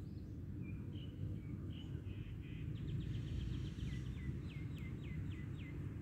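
A songbird singing over a steady low background rumble: a few short chirps, then a quick trill of rapid notes about halfway through, followed by a series of down-slurred notes.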